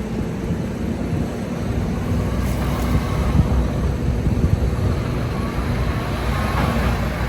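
2010 International Prostar semi truck's diesel engine running steadily with a low rumble and a held hum.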